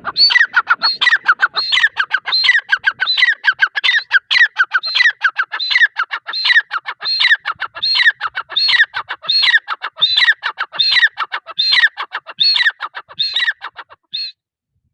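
Grey francolin calling: a loud, fast run of the same ringing multi-note phrase repeated a little more than once a second, stopping about 14 seconds in.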